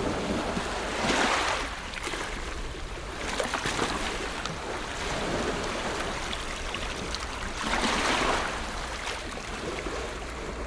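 Ocean waves washing on a shore, a steady rush of surf with two louder swells breaking, about a second in and again about eight seconds in.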